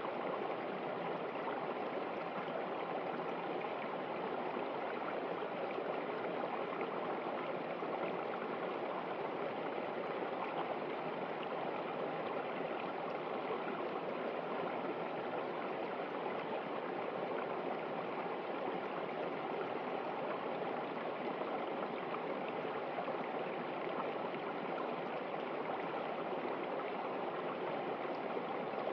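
Steady rushing and gurgling of a running river, an even wash of water noise with no breaks.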